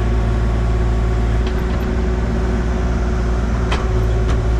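Engine of heavy excavation equipment running steadily, with a couple of brief clicks or knocks, one about a second and a half in and a sharper one near the end.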